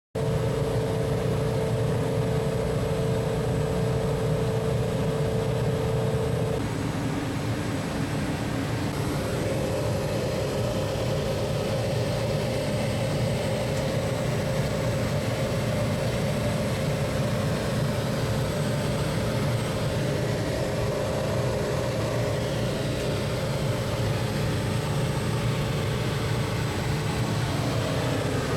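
Samsung DVM S system air conditioner running with a steady machine hum. A whine in the hum drops out about six seconds in, and a slightly higher one sets in about nine seconds in.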